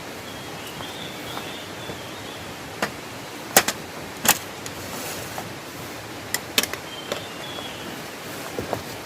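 A few sharp knocks and clicks, the loudest two close together about halfway through, over a steady hiss.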